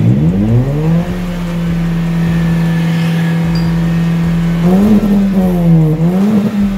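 Engine running through an aftermarket racing exhaust: the revs climb over the first second and hold steady at a raised speed, then two quick throttle blips near the end.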